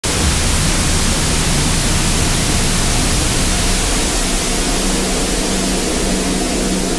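Loud, steady static hiss that cuts in suddenly out of dead silence, with a faint low hum beneath it.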